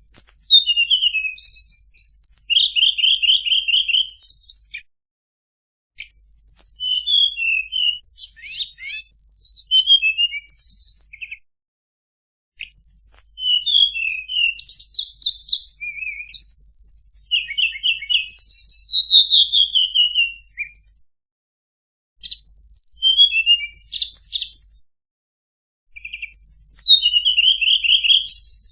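Tledekan songbird singing: bouts of quick, high whistled notes and rapid trills, each lasting a few seconds, with short silent pauses between them, as in a looped recording of a song used to teach caged birds.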